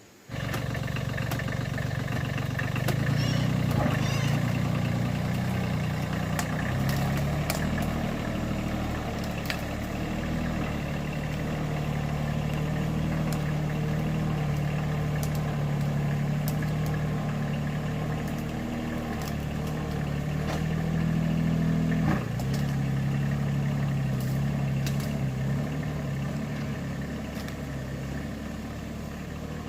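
An engine running steadily, its speed rising and falling a little, with scattered clicks and rattles. It starts abruptly just as the sound begins.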